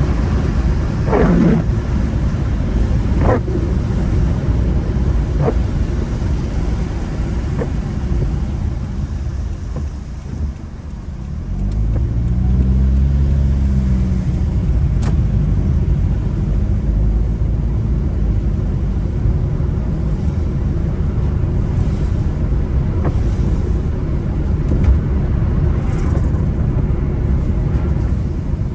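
Car driving on wet roads: a steady low rumble of engine and tyres. About ten seconds in it goes briefly quieter, then the engine note rises and falls as the car picks up speed.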